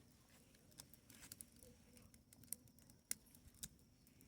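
Faint, irregular crackling and popping of a wood bonfire burning.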